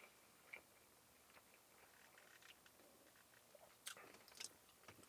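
Faint chewing: soft, scattered mouth clicks and smacks of someone eating a corn dog, a little louder near the end.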